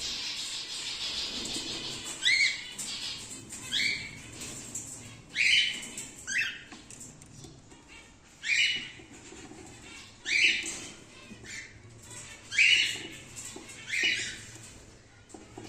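Cockatiels calling in an aviary colony: about a dozen short, harsh, screechy calls, spaced one to two seconds apart.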